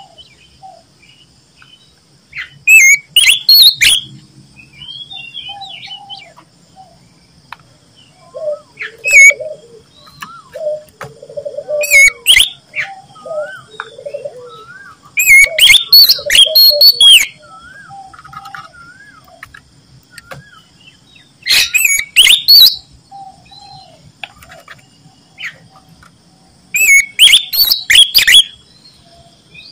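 Oriental magpie-robin (kacer) singing loudly: a loud burst of rapid, sweeping whistled and harsh phrases every few seconds, with softer warbling notes between the bursts.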